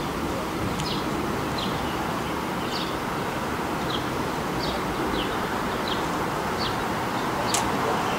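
A bird chirping over and over, short falling chirps about once a second with one sharper note near the end, over a steady hiss and rumble of outdoor background noise.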